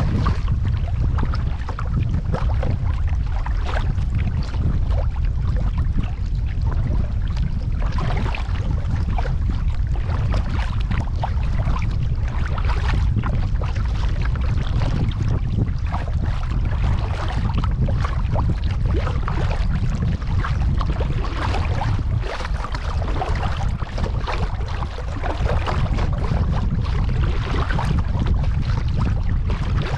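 Kayak paddling on a pond: irregular splashes and drips of the paddle blades in the water over a steady low wind rumble on the microphone.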